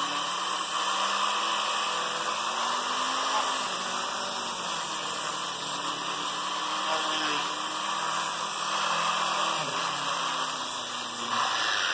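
Homemade 90-degree variable-speed electric die grinder running with a quarter-turn sanding disc, sanding into a corner: a steady high-pitched whine with a sanding hiss, its pitch drifting a little as the speed changes.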